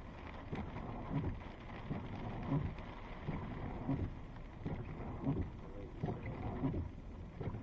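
Thunderstorm rain and wind noise, steady, with a regular low thump about every two-thirds of a second.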